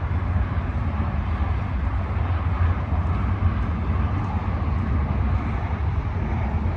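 Truck driving on the road: a steady low engine and road rumble with a rushing noise above it.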